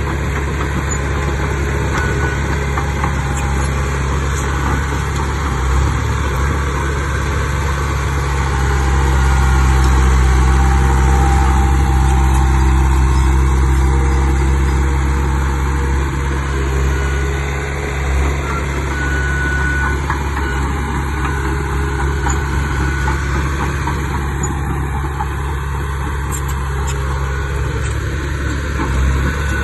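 Heavy diesel engine of earthmoving machinery running steadily. It grows louder from about eight seconds in, holds for several seconds, then eases back.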